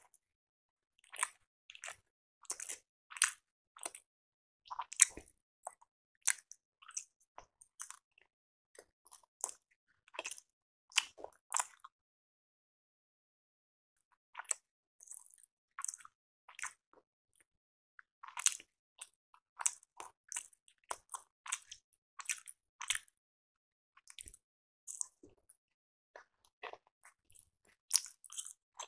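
Chewing and biting of rice appe (paniyaram dumplings): quick irregular mouth clicks, stopping for about two seconds near the middle before starting again.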